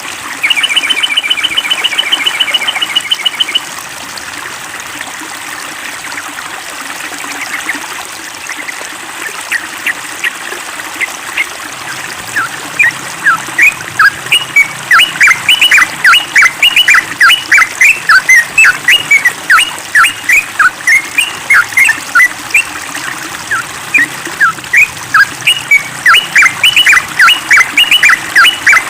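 Yellow-vented bulbul calling: a short, loud, rapid trill, then after a pause a long run of sharp, quickly repeated chattering notes, several a second.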